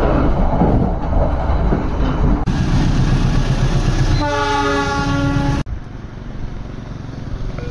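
Train passing close by with loud wheel rumble on the rails, then a single train horn blast of about a second and a half in the middle. The sound changes abruptly twice where clips are cut together.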